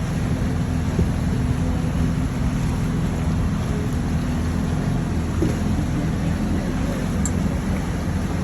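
Boat engine running at a steady, even pitch, under a constant rushing noise.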